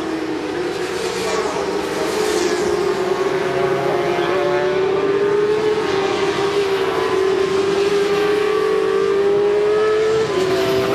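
400 cc supersport racing motorcycles at high revs: a steady, high engine note that wavers slightly in pitch, with a couple of bikes sweeping past in the first two seconds.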